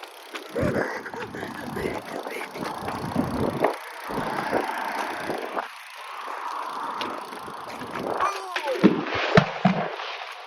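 Fireworks going off: irregular crackling and popping, with a cluster of sharp bangs near the end.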